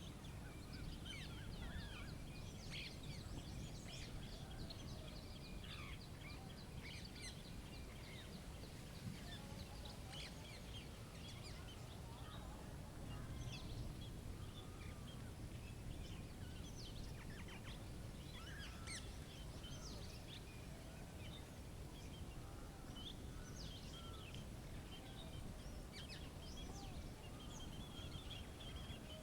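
Outdoor ambience: many short bird chirps and calls scattered throughout, over a steady low rumble.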